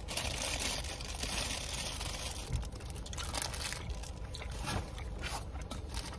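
A person chewing a mouthful of bread close to the microphone, with scattered small clicks and crinkling.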